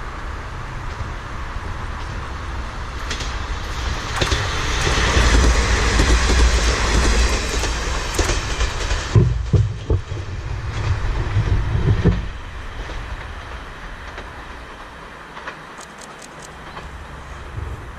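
Kanto Railway diesel railcar passing by. Its rumble builds to a peak about five seconds in, then gives way to a run of rhythmic wheel clatter over the rail joints for about three seconds before fading away.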